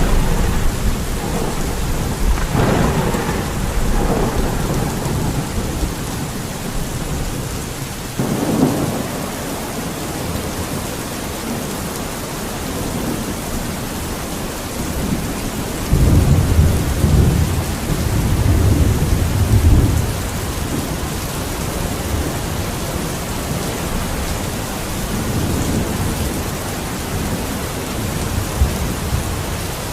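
Steady rain falling, with deep low rumbles swelling a few seconds in, again about eight seconds in, and longest from about sixteen to twenty seconds in.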